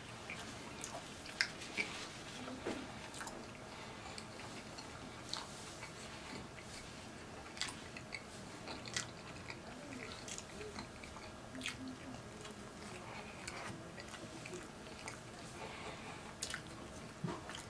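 A person chewing mouthfuls of a soft ham-and-cheese sub sandwich, with scattered short mouth clicks throughout.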